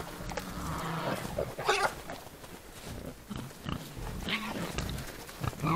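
Wild boars grunting: a string of short, irregular grunts.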